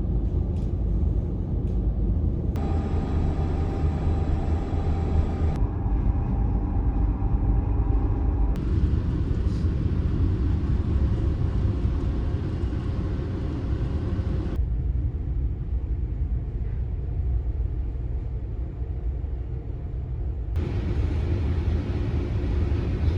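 Steady low rumble of a car ferry under way, its engines droning, with a hum of machinery tones in some stretches. The sound changes abruptly several times.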